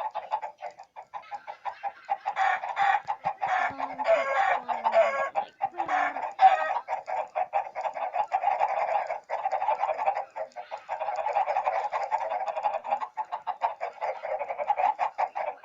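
Chickens clucking rapidly and without a break, with a few drawn-out calls in the first six seconds.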